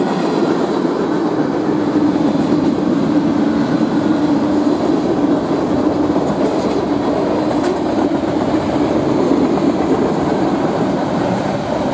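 Manifest freight train's covered hoppers and boxcars rolling past close by: a steady, loud rumble of steel wheels on the rails.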